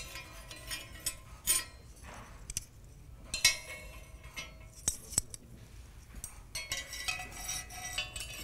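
Glass objects clinking and tinkling irregularly, light ringing contacts with a louder clink about halfway through.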